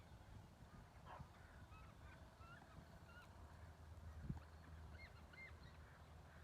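Faint, scattered chirps of small birds over a steady low hum, with a single knock about four seconds in.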